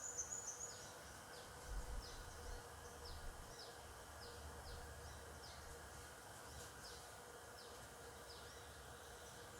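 A small bird repeating short, high chirps that slide downward, about two a second, over faint outdoor ambience with a thin, steady hum beneath.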